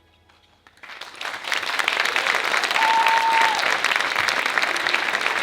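Audience applauding, starting about a second in as the music ends and swelling quickly to a steady level, with one brief steady high note about three seconds in.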